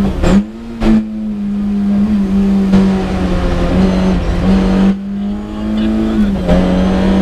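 Lada 21074 rally car's four-cylinder engine, heard from inside the cabin, running hard at a steady high note on a stage, with two sharp cracks near the start and brief drops in the note about half a second in and again about five seconds in.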